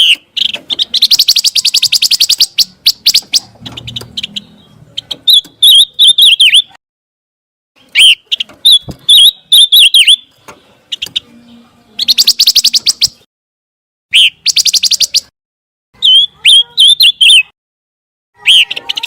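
Birdsong of the pancawarna, recorded as a masteran for songbirds to copy. High, rapid trills about a second long alternate with quick twittering phrases, separated by short pauses.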